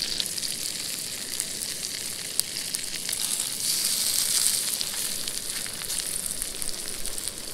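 Potato slices frying in melted butter in a cast-iron skillet: a steady sizzle with fine crackles, growing a little louder about three seconds in.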